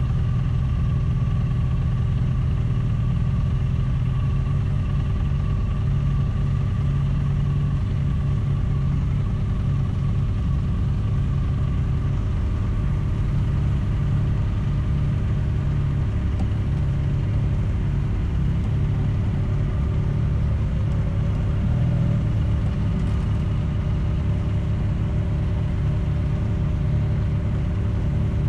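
A vehicle engine running steadily at an even pitch with a low rumble, its speed hardly changing.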